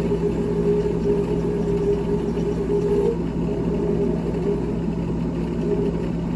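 GE refrigerator running: a steady mechanical hum with a higher whining tone over it that fades about halfway through.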